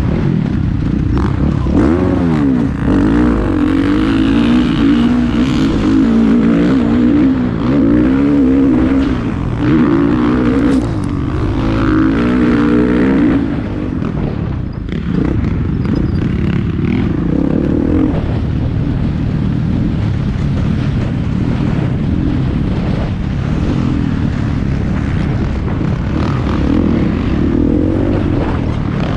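Motocross bikes racing, their engines revving up and down as they ride through the track sections. The engines are loudest in the first half, then fall back to a steadier, more distant drone.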